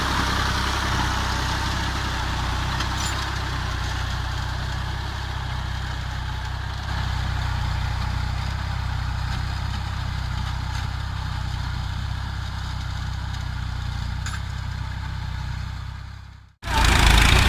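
Fiat 480 tractor's diesel engine running steadily while it pulls a reversible plough through hard ground. Near the end the sound fades away and cuts to silence, then comes back louder.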